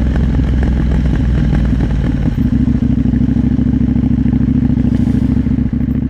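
KTM 890 Duke R's parallel-twin engine running at low revs, its note changing about two seconds in.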